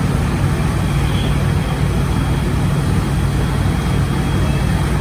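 Heavy engine idling steadily, a low, even drone with no change in speed.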